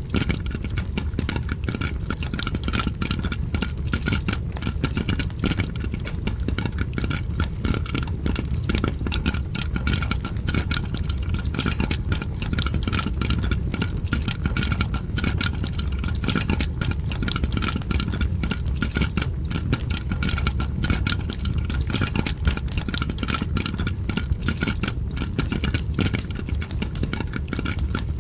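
Popcorn popping mixed with a crackling fire: a dense, irregular stream of small pops and crackles over a continuous low rumble.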